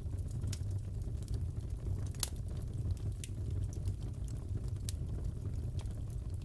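Crackling wood fire in a fireplace: a steady low rumble with scattered sharp pops and snaps, the sharpest a little over two seconds in.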